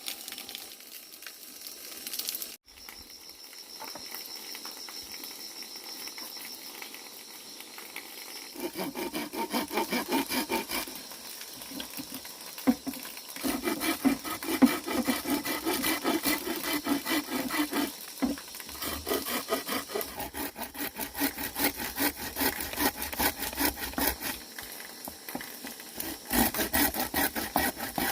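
A hand saw cutting through bamboo in quick, rhythmic back-and-forth strokes, about three a second with short pauses. It starts after a stretch of steady hiss.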